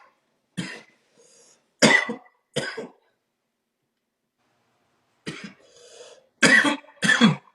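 A man's coughing fit, in two bouts: three harsh coughs in the first three seconds, then a pause, then three more near the end.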